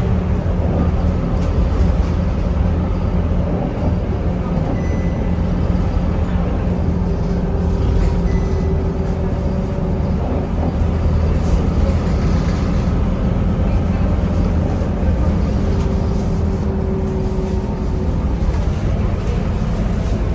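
Scania K230UB diesel bus heard from inside the cabin, its engine running as the bus drives, the engine note stepping up and down as it changes speed.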